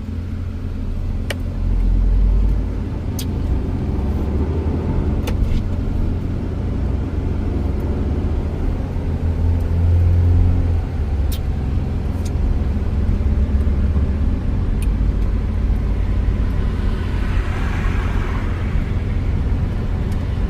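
Car driving, heard from inside the cabin: a steady low rumble of engine and road noise that swells a couple of times, with a few sharp clicks.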